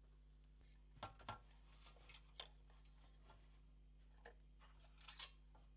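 Near silence with a few faint, short clicks and taps, about six in all, from parts of a PS4 Pro console being handled during disassembly.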